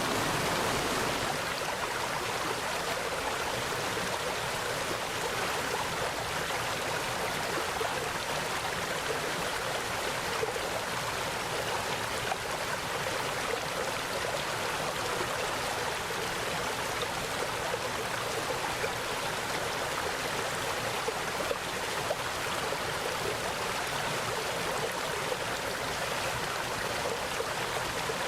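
Mountain valley stream flowing steadily, an even, continuous rush of water.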